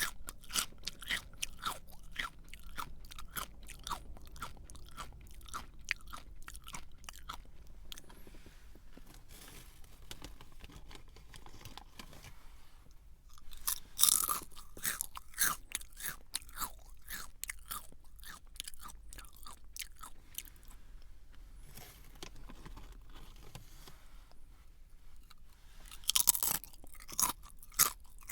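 Crunchy snack chewed close to the microphone: rapid crackling crunches. Loud fresh bites come about halfway through and again near the end, with the chewing thinning out between them.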